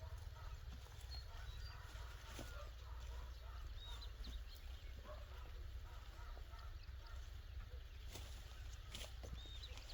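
Faint outdoor ambience: a steady low rumble with scattered light clicks and a few brief, faint high chirps.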